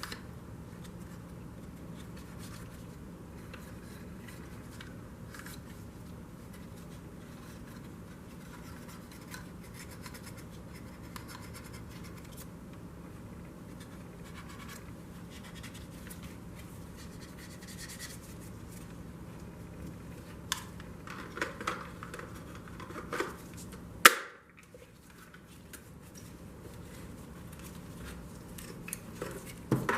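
Scratching and small clicks over a steady low hum, with a cluster of clicks near the end and one sharp, loud click about 24 seconds in.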